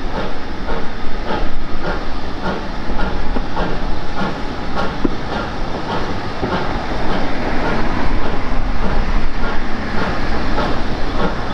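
Passenger coaches of a steam-hauled train rolling past close by, their wheels clicking over the rail joints in a steady rhythm of about three clicks a second.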